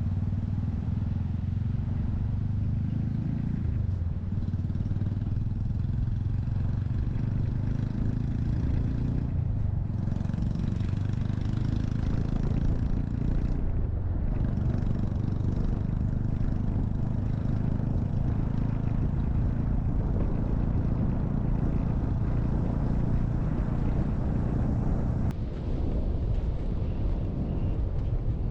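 Honda Monkey 125's single-cylinder four-stroke engine running steadily under way, with wind rush over the microphone. The engine note dips briefly a few times.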